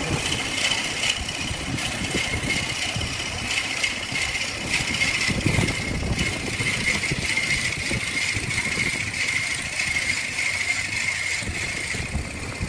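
Wood lathe running: a steady high-pitched whine with a constant rattling clatter over it.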